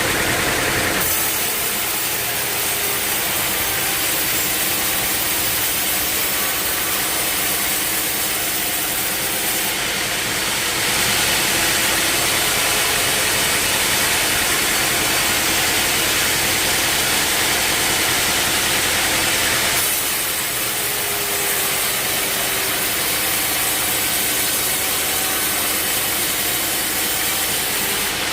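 Steady, loud running noise of sawmill machinery, with an abrupt change in its sound about a second in, near the middle and again later.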